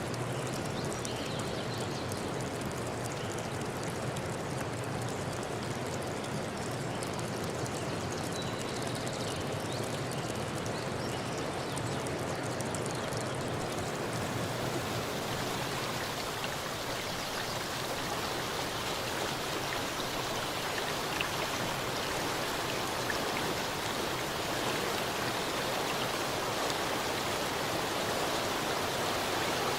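Steady rush of running water, an even hiss with no distinct events, growing brighter and hissier about halfway through.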